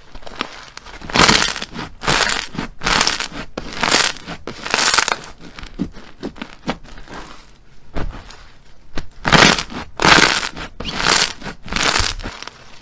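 Slime being squeezed and pressed by hand, giving a run of crackling, squelching squishes about once a second, with a quieter stretch in the middle.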